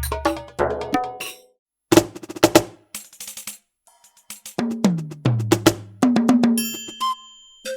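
Pearl e/Merge electronic drum kit played in short phrases separated by brief pauses, with kick drum, snare and cymbal sounds. About five seconds in comes a fill down the toms, each hit lower in pitch than the one before.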